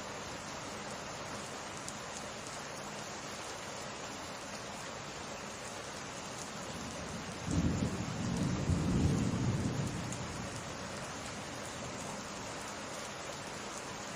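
Steady summer rain falling, with a clap of thunder breaking in about halfway through: a sudden low rumble that swells for a couple of seconds and then fades back under the rain.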